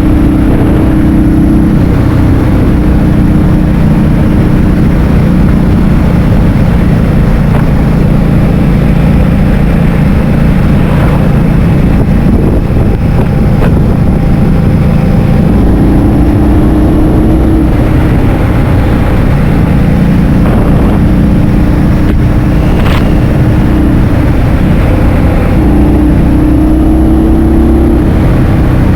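Motor scooter engine running at riding speed, its note shifting up and down a few times as speed changes, under heavy wind rumble on the microphone.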